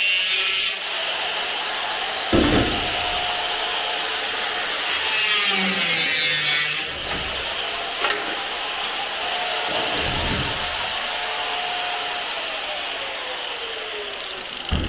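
A power tool, most likely an angle grinder, cutting and grinding sheet steel on a car's suspension top, with a steady high hiss. Near the end its whine falls away as the tool is released and winds down.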